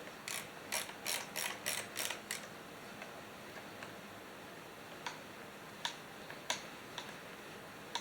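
Mechanical clicking: a run of about seven quick clicks in the first two and a half seconds, then a few scattered single clicks.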